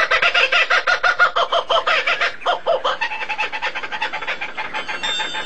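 Bird calling: a fast run of short repeated notes, about nine a second, that fades after about three seconds.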